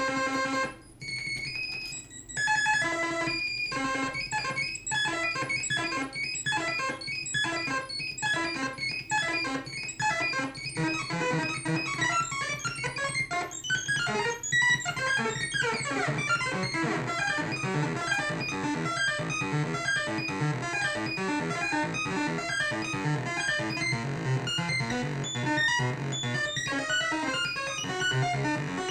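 Modular synthesizer lead patch: an FM oscillator run through distortion, an echo/delay and a filter, playing a sequenced pattern of short notes with echoes trailing behind them. A held tone stops about a second in, the note pattern grows denser as it goes on, and a falling sweep passes through near the middle.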